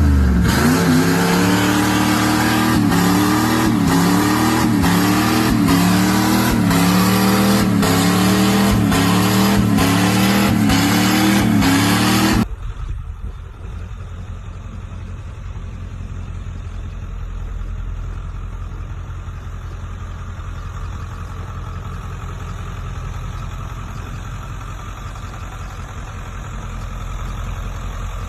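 Truck engine revving over and over, its pitch rising and dropping about once a second. It cuts off abruptly about twelve seconds in, replaced by a quieter engine running steadily with a low rumble.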